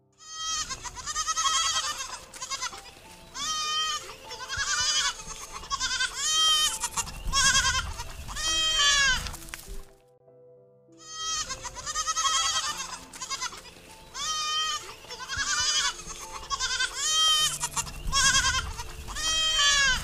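Goats bleating in a string of wavering, quavering calls. The same roughly ten-second run of bleats plays twice, with a short silent break about ten seconds in.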